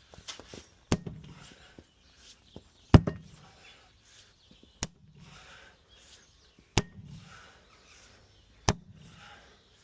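Five heavy, sharp blows struck about two seconds apart, with scuffing and shuffling between them, as an old tractor tyre's bead is forced off its rusted rim.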